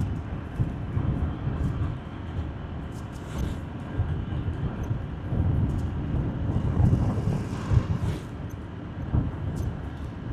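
Motorbike being ridden along a road: a steady low rumble of engine, tyres and wind that swells a few times.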